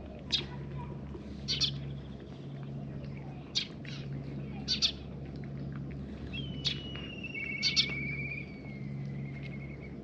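Birds calling: short sharp chirps every second or two, and a long trilled call starting about six and a half seconds in that drops in pitch partway through. Under them runs a steady low hum that breaks off briefly at regular intervals.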